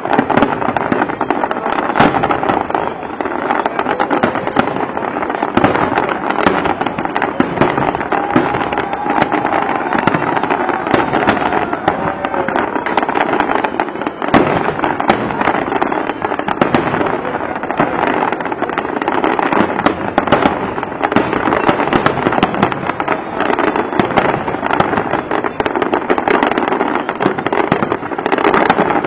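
Aerial fireworks display: a dense, unbroken barrage of shell bursts, bangs and crackles.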